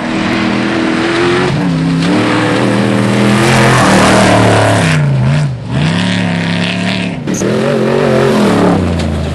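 Trophy truck's race engine running hard, its revs holding, rising and falling as it drives. The revs drop sharply about five and a half seconds in and briefly again near seven seconds, then climb back up.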